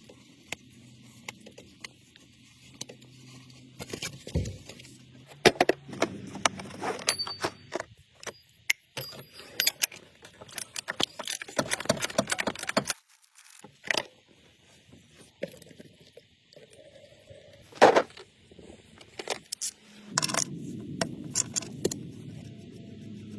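Irregular metallic clinks, rattles and scrapes of hand tools and parts being handled during a car's oil and filter service. A low steady hum comes in near the end.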